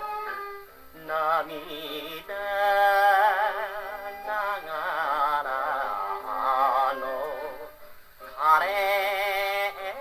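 A 78 rpm record of a Japanese popular song played on a wind-up HMV 102 acoustic gramophone with a steel needle. A melody line with heavy vibrato runs over the accompaniment in short phrases, with brief breaks about 1, 4 and 8 seconds in.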